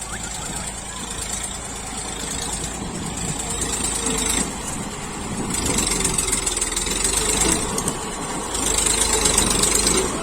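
Massey Ferguson tractor's diesel engine working hard while pulling a loaded trolley, its sound swelling louder in several surges and easing back in between.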